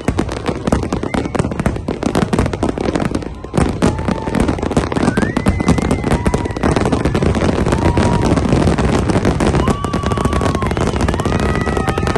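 Fireworks display going off in a dense, continuous barrage of rapid crackling bangs. Several brief held high tones sound over the barrage.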